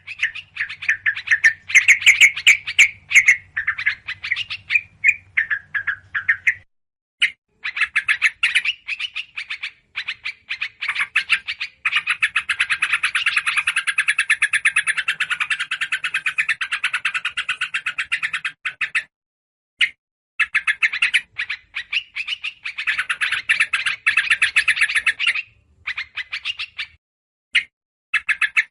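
Yellow-vented bulbuls chattering noisily in long, fast runs of notes, the agitated call used as a bird lure. Thin high notes are mixed in, and there are short breaks between the runs.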